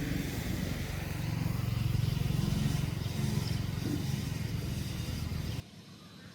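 A motor vehicle engine running steadily with road and wind noise. It cuts off abruptly near the end, leaving a faint background.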